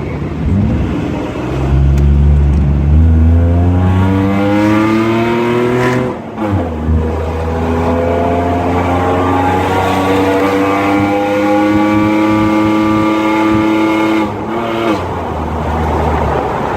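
2010 Jeep Wrangler's 3.8-litre V6 with long-tube headers and 2.5-inch pipe with MagnaFlow 60 series exhaust, accelerating: the engine note climbs steadily, drops sharply about six seconds in as it shifts up, climbs again for about eight seconds, then drops to a lower steady note near the end.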